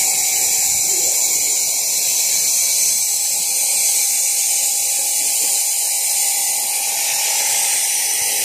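Automatic egg-washing machine running: a steady, loud hiss with a faint steady hum underneath.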